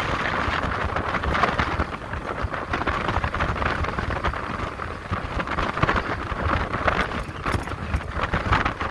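Wind buffeting the microphone of a rider on a moving electric motorcycle: a continuous rushing noise with a low rumble that swells and eases in gusts.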